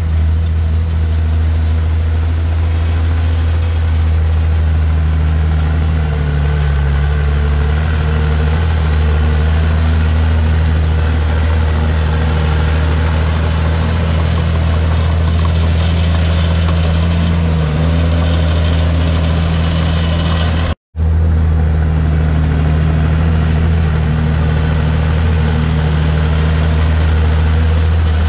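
Komatsu D51PX bulldozer's diesel engine running steadily with a deep, constant hum. The sound cuts out for an instant about 21 seconds in, then carries on the same.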